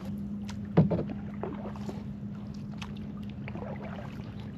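Kayak paddling on calm water: the paddle dipping with small splashes and drips, and one sharp knock about a second in, like the paddle striking the hull. A faint steady hum runs underneath.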